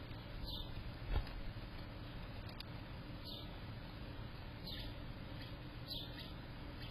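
Small bird giving short, high chirps every second or so, over a steady low background noise. A single loud knock comes just over a second in.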